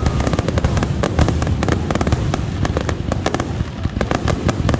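Fireworks going off in a dense barrage: many sharp bangs and crackles a second, overlapping without a break over a low rumble.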